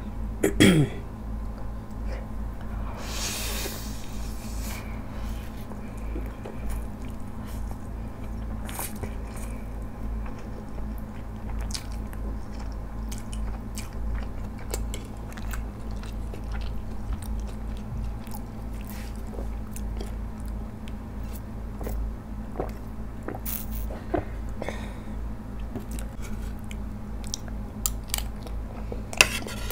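Close-miked mouth sounds of a person eating ramen noodles: chewing with wet smacks and small clicks, and a short hiss about three seconds in. A steady low hum runs underneath.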